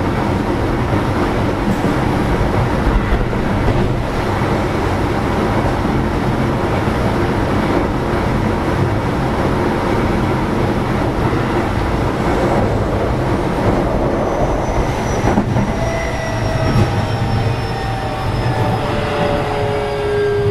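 Interior running noise of a Keio 7000-series electric commuter train at speed: a steady rumble of wheels on rail. From about two-thirds of the way in, a whine of several tones rises out of it and falls slowly in pitch as the train begins to slow.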